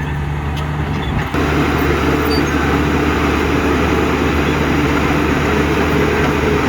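Heavy construction machine's diesel engine running steadily with a deep drone. About a second in the sound jumps louder and rougher, as under load.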